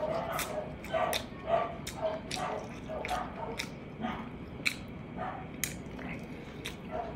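Open-mouthed chewing and wet lip-smacking while eating braised pork ribs and rice, with sharp smacks about twice a second.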